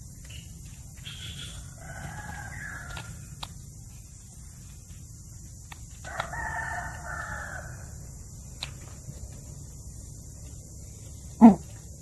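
A rooster crowing twice, each crow lasting about two seconds, over a low steady hum. Near the end comes a single sharp knock, the loudest sound.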